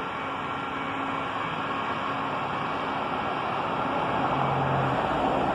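Steady hiss and rumble of engines and traffic, with a faint low engine hum, growing gradually louder.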